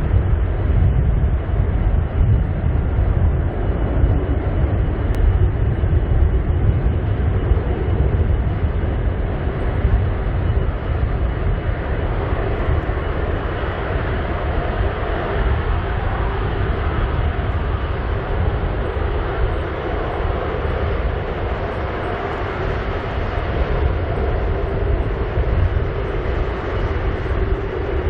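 Airbus A330-343's Rolls-Royce Trent 700 turbofan engines at take-off, a loud, steady, deep rumble with a hum in it. About twenty seconds in, the hiss above it grows a little brighter.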